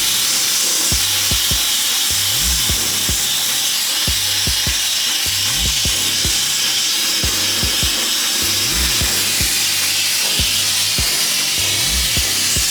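Sandblaster blasting with a steady, loud hiss of air and abrasive, over background music with a bass beat that repeats about every three seconds.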